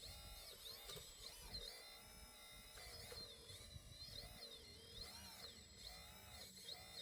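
Small electric motor and pump of a scale RC hydraulic excavator whining faintly, its pitch repeatedly rising and falling as the hydraulics take and release load.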